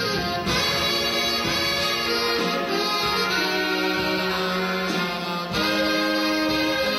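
Saxophone ensemble playing held notes in harmony, the chord moving to new notes every second or so.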